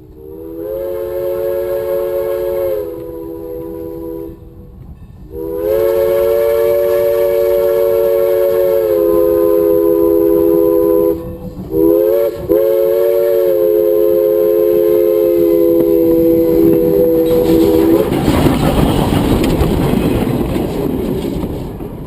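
Train horn sounding a chord of several tones in two long blasts, one short and one long, the pattern used to signal a grade crossing. The pitch drops slightly during the blasts. Then the rumble of the train passing swells near the end.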